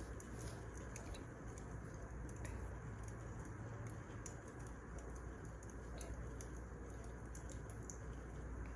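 Wood fire crackling: a steady low rush with frequent small, irregular pops and snaps.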